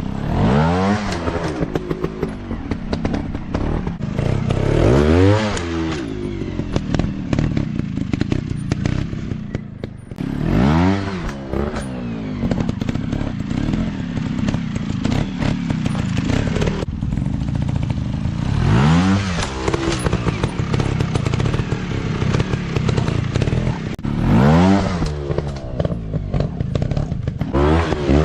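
Four-stroke single-cylinder dirt bike engines running hard off-road. They rev up and back down about five times, with clattering mixed in.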